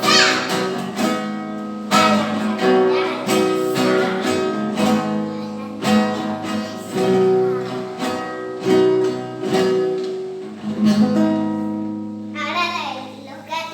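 Acoustic guitar strummed, with chords struck roughly once a second and left to ring. A voice comes in briefly near the end.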